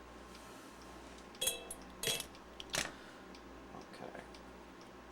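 Three clinks of small hard objects being handled and set down on a workbench, about a second and a half in, two seconds in and near three seconds, the first ringing briefly, then a few faint taps.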